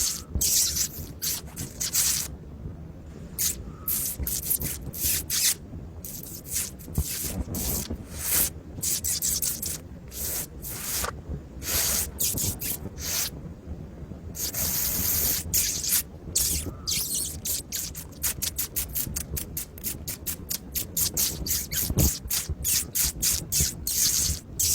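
Birds feeding: a dense run of quick, irregular scratchy clicks, several a second, with a longer hiss about halfway through.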